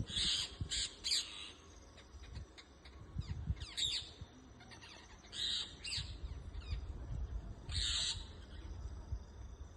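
Parrots giving short, harsh, screeching calls, several in quick succession near the start, then in bursts every couple of seconds.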